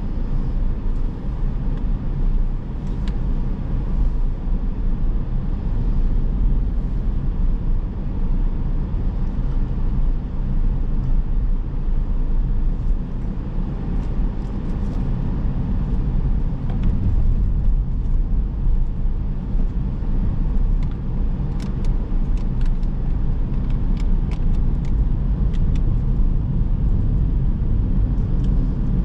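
Car driving on city streets: a steady low rumble of engine and tyre noise. A few faint ticks come in during the last third.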